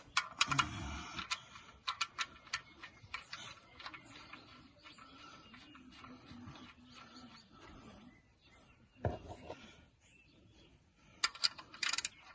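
Scattered small metallic clicks and clinks of hand tools and a drain plug being handled while the oil drain plug is refitted, with a duller knock about nine seconds in.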